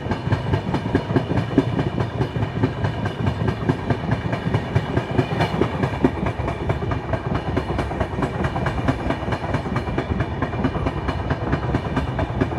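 Passenger train running through without stopping, its wheels clicking rapidly and evenly over the rails above a steady rumble.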